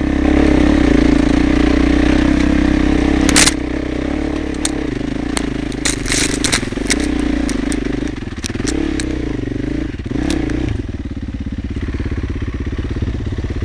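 Enduro motorcycle engine running along a scrubby trail, loudest and steady for the first few seconds. Its note then rises and falls, with a scatter of sharp clicks and knocks, before it drops to a lower, steadier note for the last few seconds.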